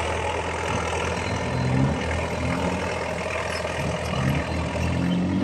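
Heavy diesel engine running steadily, its pitch rising and falling a few times as it is throttled up and down.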